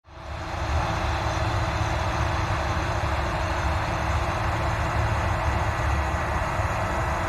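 Combine harvester running steadily at work: a deep engine drone under a wide, even mechanical rush, fading in over the first half second after a cut.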